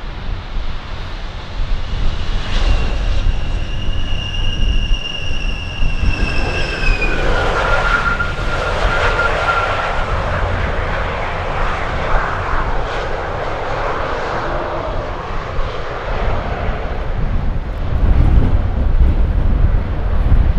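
Jet airliner passing close by: a high engine whine that falls slightly in pitch and fades out about ten seconds in, over the rushing noise of the engines. Strong wind buffets the microphone, heaviest near the end.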